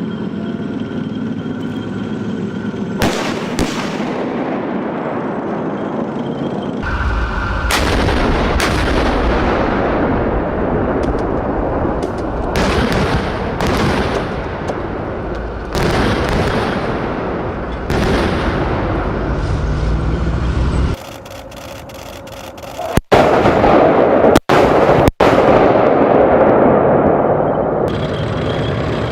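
Main battle tank firing its main gun, a series of heavy booms that ring on for a second or so, over the steady rumble of its engine. The sound breaks off abruptly several times near the end.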